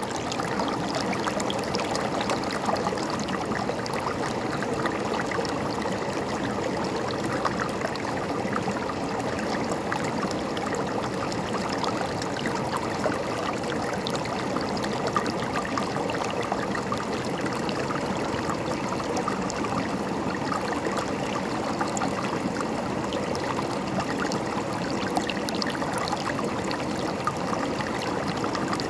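River water flowing steadily over its bed: a continuous even rush with many small splashes and gurgles through it.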